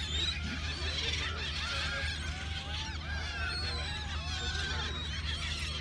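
A flock of gulls calling, many short arched cries overlapping one another without a break, over a steady low hum.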